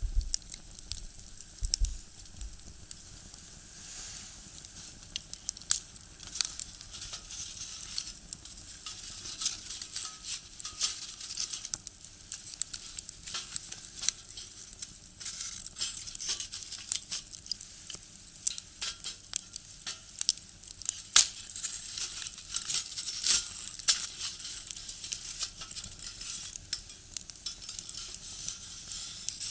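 Firewood burning in a small box stove, crackling and popping: many irregular sharp snaps over a steady high hiss.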